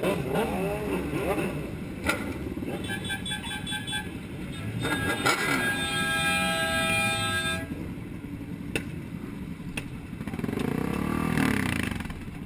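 Car horn honking: a quick run of short beeps about three seconds in, then one long blast of about two seconds, over the steady noise of traffic on the road.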